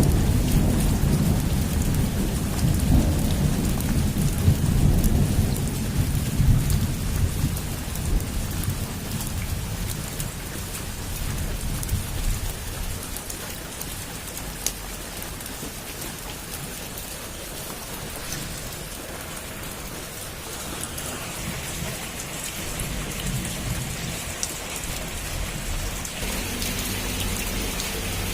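Heavy rain falling on a roof in a steady hiss, with a long low roll of thunder at the start that slowly dies away over about ten seconds.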